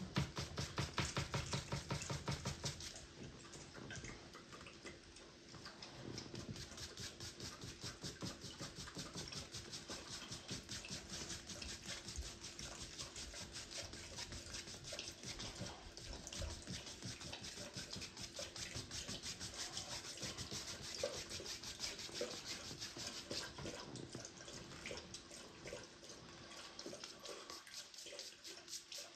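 Paintbrush scrubbing paint onto a canvas in rapid back-and-forth strokes, a steady scratchy brushing that is loudest for the first few seconds.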